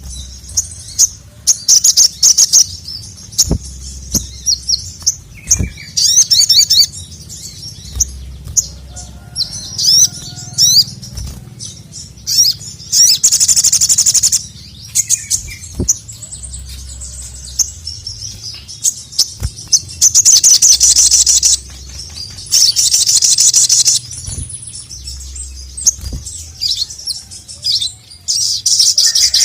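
Ruby-cheeked sunbird (sogok ontong) singing: bursts of rapid, high chirps and trills lasting a second or two each, with short single chirps between them.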